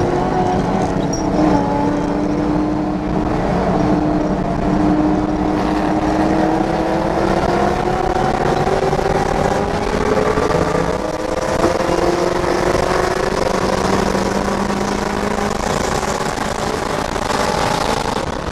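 Supercharged 4.6-litre V8 of a 2004 Mustang SVT Cobra under load at speed, heard from inside the car. Its pitch climbs slowly for about ten seconds as it accelerates, then holds steady, over wind and tyre noise.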